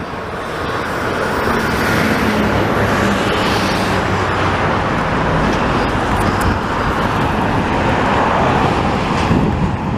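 Steady road-traffic noise that builds over the first couple of seconds and then holds.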